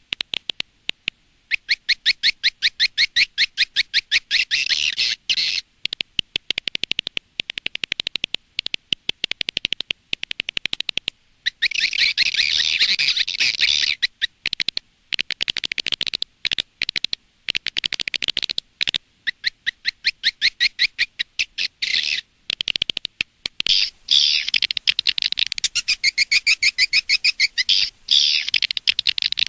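Recorded swiftlet calls: fast trains of dry, chirping twitters, in runs of a few seconds with brief breaks between them. This is a lure-call recording used to draw swiftlets to a nest house.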